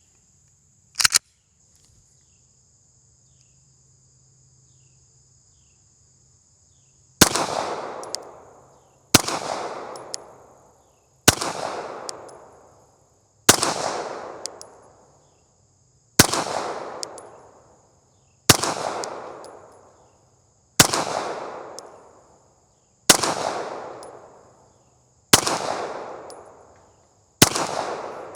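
Slow-fire handgun shots at a paper target: ten single shots about two seconds apart, each followed by a long fading echo. A faint steady high whine, like insects, runs underneath.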